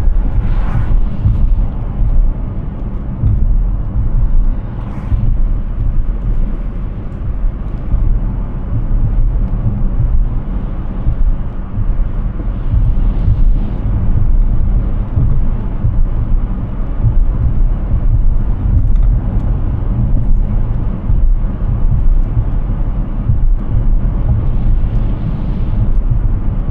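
Steady low road rumble from a Hyundai Ioniq 6 driving, an electric car, so tyre and road noise with no engine note, with a few brief swells of higher hiss.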